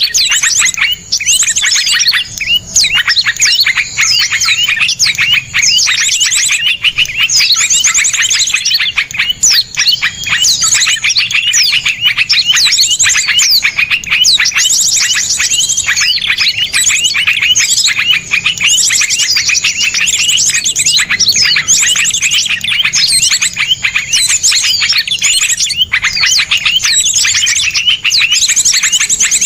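Many small songbirds chirping and trilling together in a dense, unbroken chorus of rapid, sharp runs of notes: a 'masteran' recording of small-bird 'tembakan' calls, played to teach caged songbirds.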